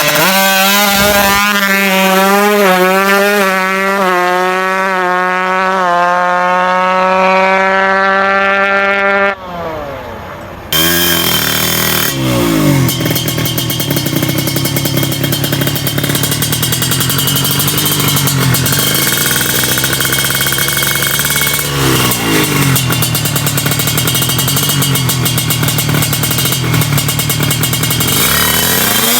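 Tuned drag-bike motorcycle engine revving: held high at a steady, slightly wavering pitch for about nine seconds, then after a sudden break, blipped up and down several times.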